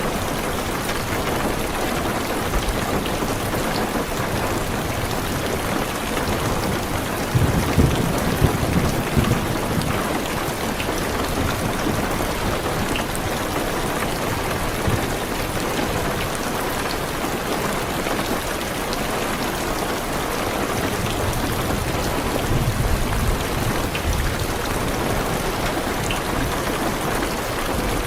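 Heavy rain drumming steadily on a car's roof and windows, with low rolling thunder swelling up twice, about eight seconds in and again past the twenty-second mark.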